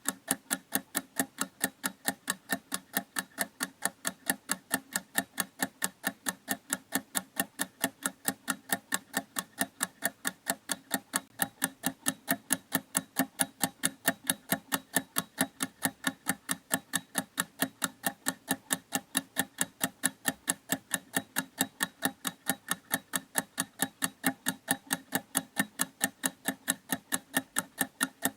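Mechanical clock ticking, quick, evenly spaced ticks of several a second, steady and unbroken.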